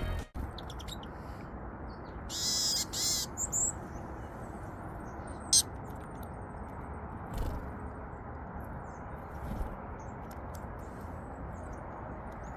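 A few short high-pitched bird calls over a steady background hiss, loudest as a burst of calls a couple of seconds in, with a sharp click a little later.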